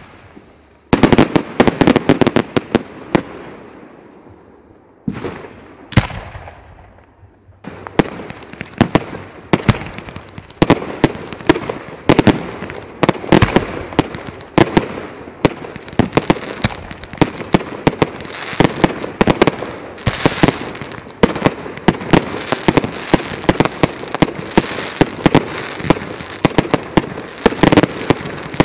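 Fireworks going off in rapid strings of sharp bangs and crackles. A cluster about a second in dies away into a short lull, a few single bangs follow, and from about eight seconds in the bangs come densely and without pause.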